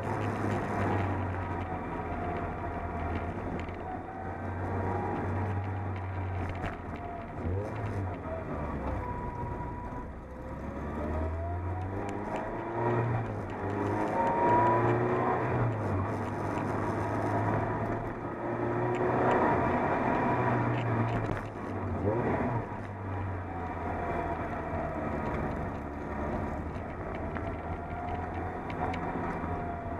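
Toyota MR2 Spyder's mid-mounted 1.8-litre four-cylinder engine heard from inside the cabin while driving, its revs rising and falling repeatedly through the gears. The downshifts carry quick throttle blips from an Arduino-controlled automatic rev-match.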